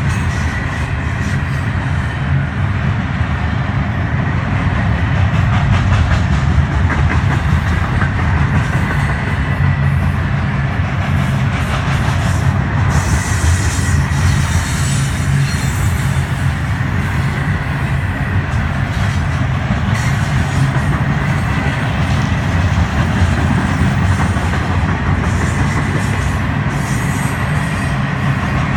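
Florida East Coast Railway freight cars rolling past, a steady heavy rumble of steel wheels on the rails with clickety-clack over the rail joints and a faint steady high ring.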